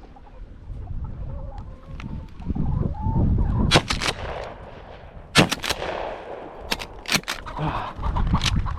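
Farm chickens clucking, with several sharp clicks or knocks in quick pairs in the second half.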